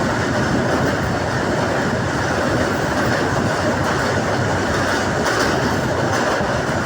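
A passenger train running at speed, heard from inside a carriage: steady rumble and rush of wheels on the rails with light clicking from the rail joints.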